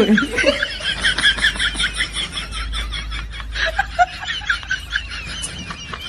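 Many small birds chirping rapidly over one another, over a steady low rumble.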